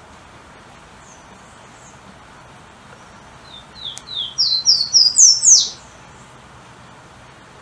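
Golden-crowned warbler (pula-pula) singing one song, about halfway through: a quick run of about nine short down-slurred whistles lasting about two seconds. The notes climb steadily in pitch and grow louder to the end. A couple of faint high notes come earlier, over a light steady hiss.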